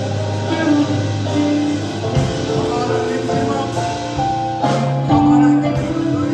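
Live gospel praise band playing, with sustained chords, bass and some singing.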